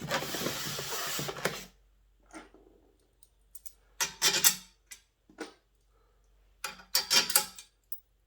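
Bolts, nuts and washers being handled and fitted on the plucker's legs: scattered small metallic clicks and clinks, loudest in two clusters a little past the middle and near the end. A loud rustling noise lasts about the first second and a half.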